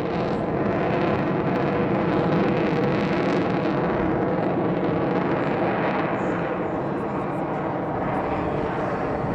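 Avro Vulcan's four Rolls-Royce Olympus turbojets heard from the ground as the delta bomber flies its display: a loud, steady jet noise that swells slightly about two seconds in.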